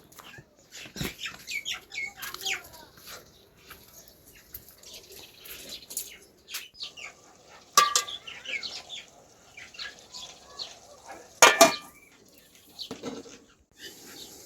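Metal pots, dishes and utensils clinking and clattering in irregular knocks, with two louder ringing clanks, one about eight seconds in and one about eleven and a half seconds in.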